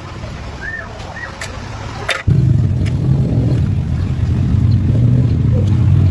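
A couple of clicks, then a small motorcycle engine starts suddenly about two seconds in and runs steadily with a loud low drone.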